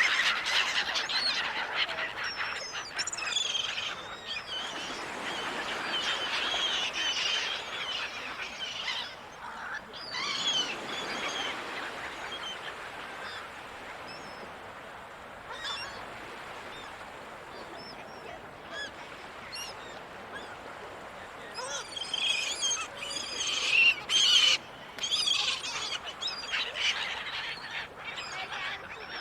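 A flock of gulls calling, many overlapping cries in loud flurries at the start and again through the last third, with scattered single calls between, over a steady wash of ocean surf.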